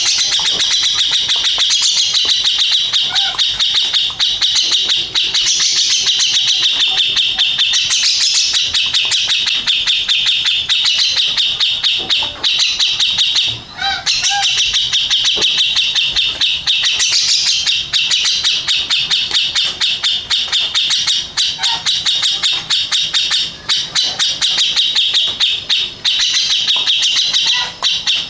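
Cucak jenggot, a bulbul, singing a long, loud, almost unbroken run of rapid high notes, with one short pause about halfway through.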